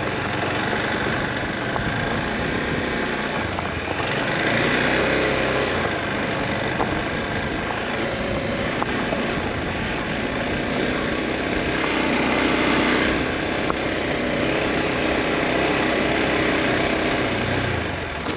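Motorcycle under way at road speed: engine running under a steady rush of wind and road noise, swelling twice, and cutting off abruptly at the very end.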